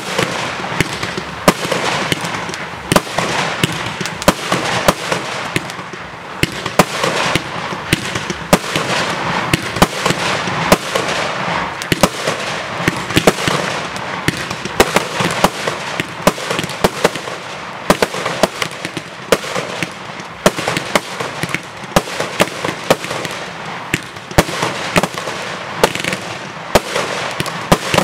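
Aerial fireworks display firing continuously: many sharp bangs of bursting and launching shells, several a second, over a steady noisy hiss.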